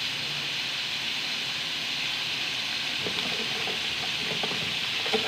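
Chicken pieces sizzling steadily in a hot wok.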